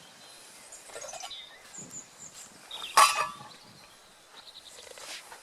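A single sharp metallic clank with a brief ring about three seconds in, from a cooking pot and its lid being handled at the campfire. Faint, high bird chirps sound before and after it.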